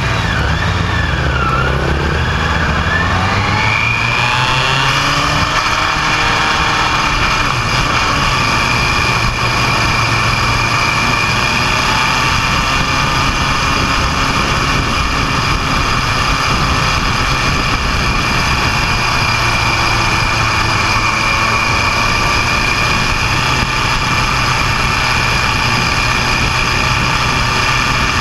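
A motor vehicle's engine running, with a steady high whine over it. The pitch rises and falls in the first few seconds, then holds steady.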